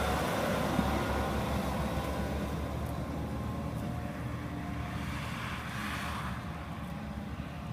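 A motor vehicle running, a steady rumble that slowly fades.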